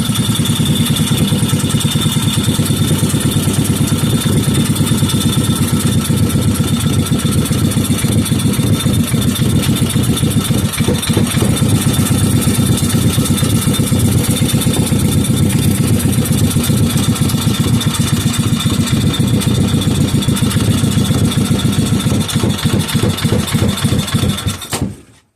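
5 hp Briggs and Stratton single-cylinder engine running steadily with a fast, even firing pulse. Near the end it falters and stops.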